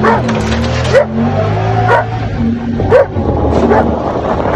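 Hunting dogs barking repeatedly, about once a second, over the steady running of a buggy engine.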